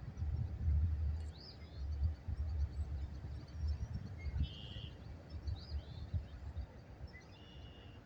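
Songbirds chirping and calling in short bursts over a low, uneven rumble of wind noise.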